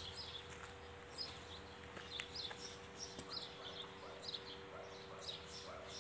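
Small birds chirping, short high chirps several times a second, over a faint steady hum.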